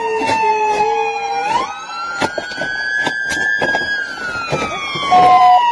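Police car siren on a wail, its pitch sliding slowly down, jumping up, then rising and falling again, with scattered knocks and a brief steady beep near the end.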